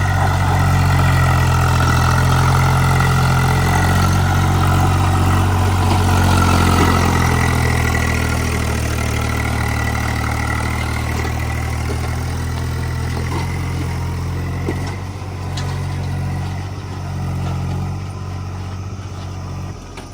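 Diesel tractor engine running steadily with a low drone, growing somewhat quieter over the second half.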